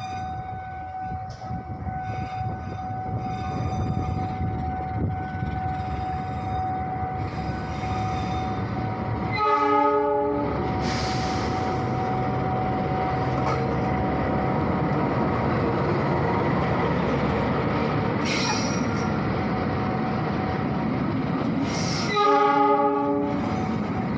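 Pangrango passenger train's diesel locomotive and carriages running along the track, with a steady high tone through the first half. The locomotive sounds its horn twice, once about ten seconds in and again near the end.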